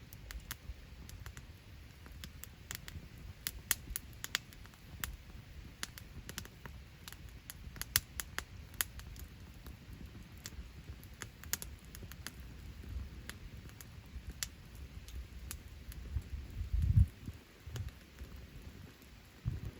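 Wood campfire crackling, with many irregular sharp pops and snaps over a low rumble. A louder low thump comes about 17 seconds in.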